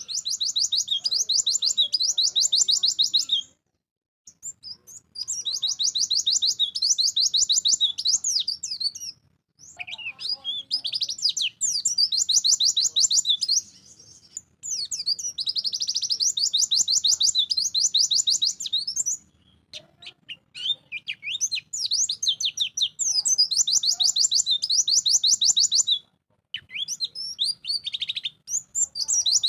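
A white-eye (pleci) singing vigorously in bouts of rapid, high trilling notes, each bout lasting a few seconds with short pauses between, six bouts in all.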